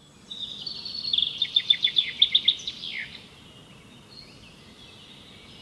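A songbird singing: a quick run of repeated high notes that ends in a falling note about three seconds in, followed by softer, fainter notes, over a low steady forest ambience.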